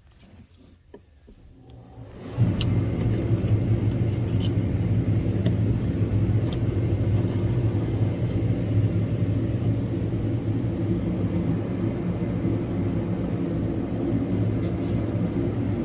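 A machine's motor or engine starts suddenly about two seconds in and runs steadily with an even, low hum.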